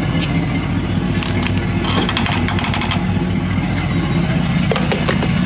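A vehicle engine idling steadily, with a run of sharp clicks about a second or two in and a few more near the end.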